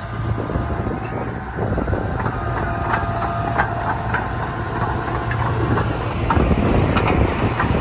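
Diesel engine of a Komatsu D31P crawler bulldozer running steadily, with scattered metallic clanks and a brief squeal about two to three seconds in.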